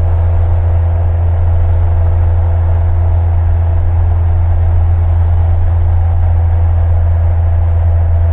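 Light single-engine piston airplane's engine and propeller droning steadily in cruise, a constant low hum with no change in pitch.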